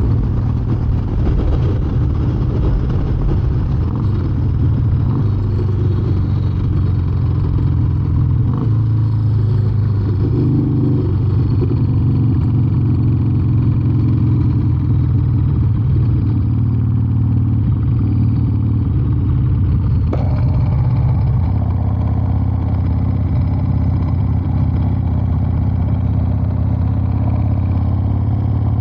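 A Harley-Davidson Heritage Softail's Evolution V-twin running steadily at cruising speed while the bike is ridden, on a newly fitted carburetor. The engine note shifts slightly about two-thirds of the way through.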